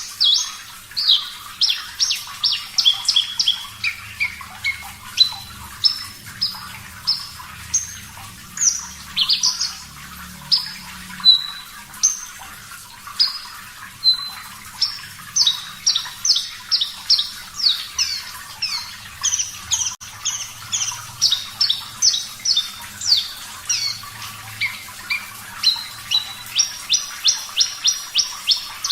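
Javan bush lark (branjangan, Mirafra javanica parva) singing continuously: a fast string of short, sharp whistled notes, many of them quick downward sweeps, broken by rapid trills of one note repeated, over a steady hiss of running water.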